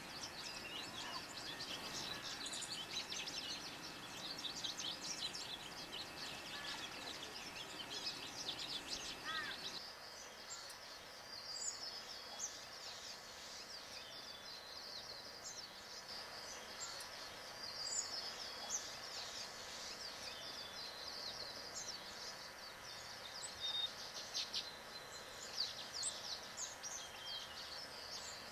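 Small birds chirping and singing in quick, high-pitched trills and notes, several calls overlapping, over steady outdoor background noise that changes abruptly about ten seconds in.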